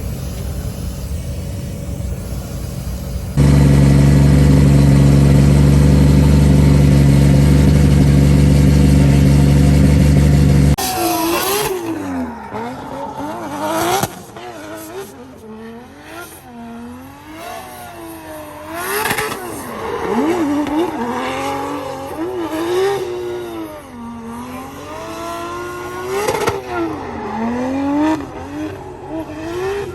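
A drift car's engine on track, revving up and down over and over as it is driven hard. Before that, a loud steady drone holds one pitch for about seven seconds and cuts off abruptly.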